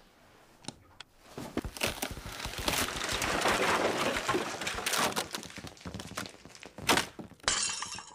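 A run of crashes, knocks and breaking, as of furniture and objects being knocked over and smashed. It starts with scattered knocks about a second and a half in, grows into a dense clatter for several seconds, and has a sharp hit near the end.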